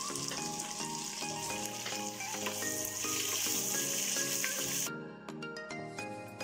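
Chopped onion and green chillies sizzling in hot ghee and oil in an aluminium pressure cooker as a wooden spoon stirs them. The sizzle cuts off suddenly about five seconds in, leaving background music.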